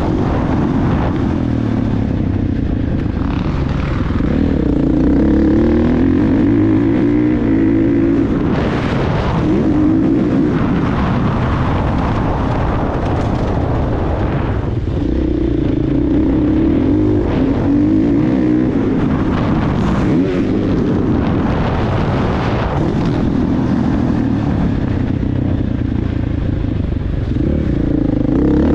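Motocross dirt bike engine running hard, its revs rising and falling every few seconds as the bike accelerates and backs off around the track.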